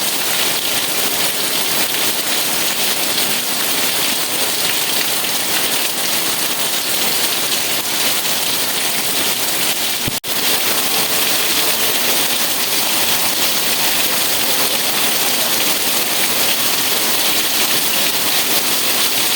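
Steady rain, an even hiss of falling drops, that cuts out for a split second about halfway through.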